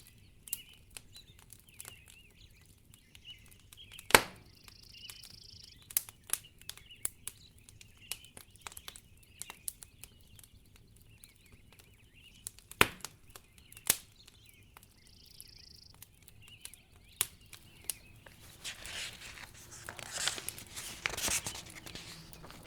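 Wood fire crackling in a fireplace, with scattered sharp pops and two louder snaps about four and thirteen seconds in. Near the end come a few seconds of soft rustling.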